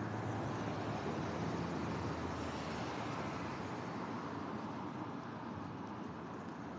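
Steady street traffic noise, with a low engine hum from a passing vehicle fading out over the first couple of seconds.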